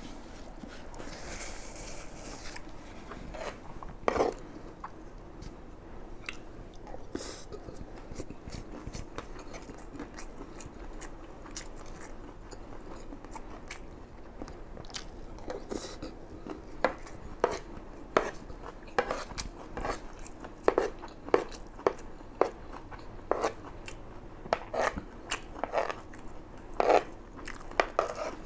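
Close-miked chewing of a mouthful of fried rice, with short wet mouth clicks and smacks that come more often in the second half.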